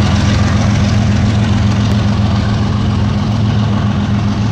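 BNSF diesel freight locomotives rolling slowly past, their engines running with a steady low drone over the broad noise of the train moving on the rails. The sound eases slightly toward the end as the double-stack container cars start going by.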